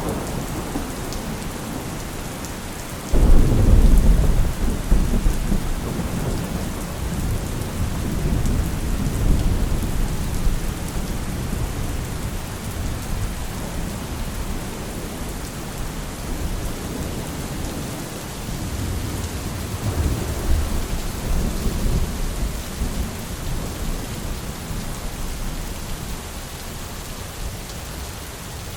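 Steady rain with thunder: a sharp thunderclap about three seconds in rolls into a long low rumble that fades, and a second, softer roll of thunder swells about twenty seconds in.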